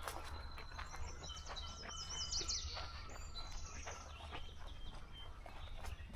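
Wild songbirds singing. One bird gives a rapid run of repeated high, slurred notes from about one and a half to three seconds in, with other scattered calls around it over a low steady outdoor rumble.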